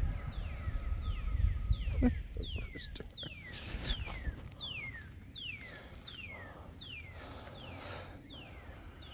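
A bird calling over and over: a short, high, falling note repeated about three times every two seconds. Low wind rumble on the microphone fades out about two seconds in.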